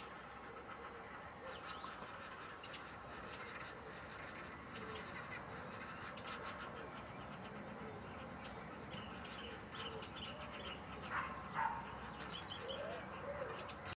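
Birds chirping: short, high calls scattered irregularly, with a brief louder call about eleven seconds in.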